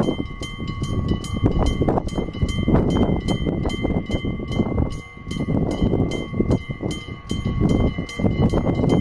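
Old-style electric bell of a railway level crossing ringing, its hammer striking about three times a second, under heavy wind buffeting the microphone.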